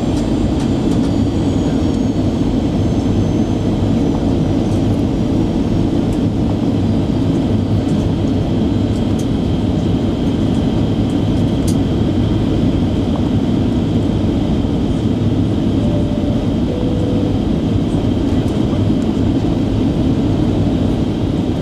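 Steady cabin noise inside a jet airliner in flight: a constant low rumble of engines and rushing air, with a thin steady whine above it.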